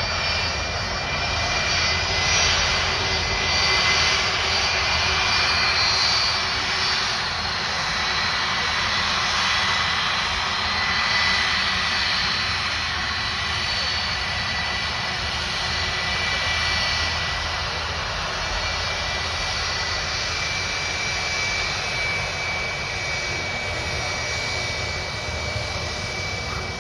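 Jet airliner's engines running at takeoff power: a steady rush with a high whine, easing off slowly toward the end.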